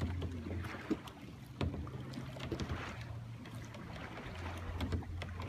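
Kayak on the water: light water noise and a couple of sharp knocks, with wind rumbling on the microphone.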